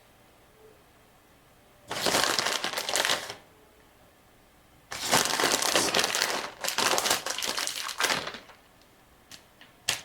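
Packaging being crinkled and crumpled in two bursts, a short one about two seconds in and a longer one from about five seconds in, followed by a few light clicks near the end.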